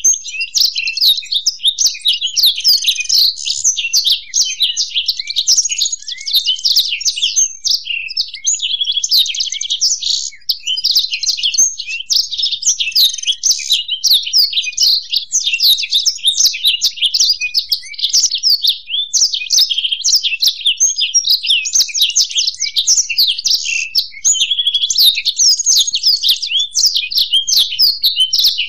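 Black-throated canary (blackthroat) and European goldfinch song mixed together: a continuous, rapid stream of high chirps, twitters and trills with no pauses.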